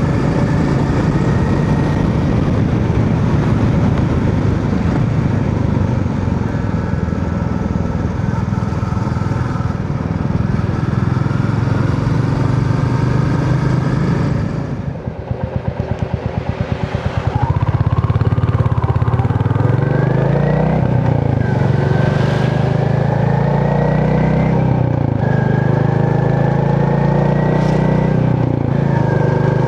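Royal Enfield Meteor 350's single-cylinder engine and exhaust running steadily on the move. About halfway through the sound drops for a couple of seconds and the separate exhaust beats come through, then the pitch rises again as the bike picks up speed.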